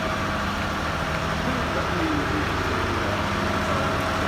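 Steady low engine hum of a running vehicle, with faint voices in the background.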